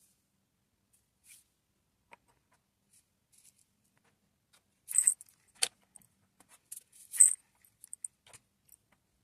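Diamond painting drills, small resin pieces, clicking and rattling as they are picked up and set down. The sounds come as sparse short clicks, with brief rattles about five and seven seconds in.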